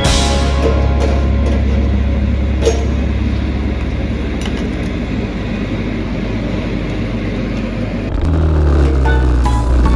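Dirt bike engine running steadily. About eight seconds in, its note changes and grows louder.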